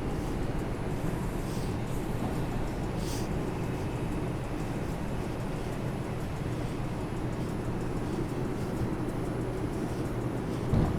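Steady hum inside an R142 subway car standing at a station, with a short knock near the end.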